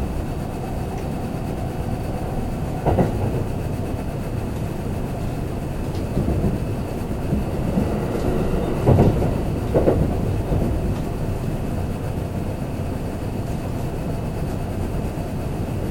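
Kintetsu limited express train running, heard inside the passenger car: a steady rumble of wheels on rail, with a few louder knocks about three seconds in and twice around nine to ten seconds.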